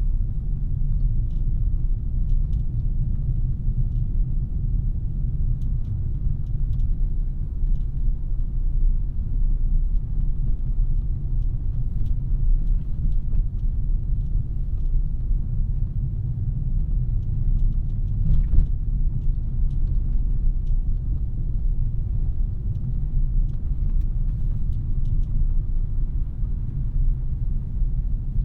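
A 2017 Audi A3 being driven, its 2.0-litre turbocharged four-cylinder running under a steady low rumble of road and tyre noise. A few faint ticks come through now and then.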